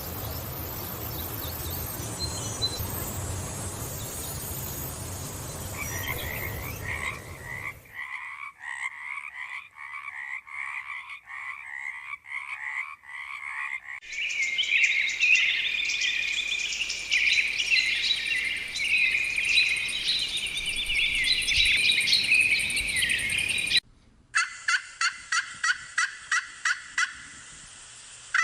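A run of separate wildlife recordings. A steady outdoor ambience with faint high bird calls comes first. From about six seconds in, a call repeats about twice a second. Around the middle comes a dense chorus of chirping calls, and after a brief break near the end, a series of evenly spaced pulsed calls, about two a second.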